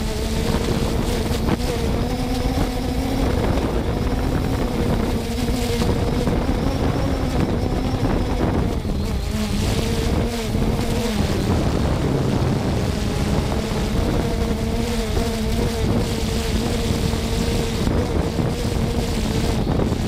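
3DR Solo quadcopter's electric motors and propellers humming steadily, the pitch dipping briefly about halfway through as the motors change speed, with wind rushing over the microphone.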